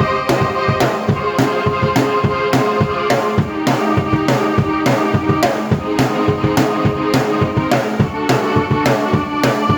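Drum kit and keyboard played together by one performer: an instrumental piece with sustained string-like keyboard chords over a steady drum beat, strong hits about twice a second.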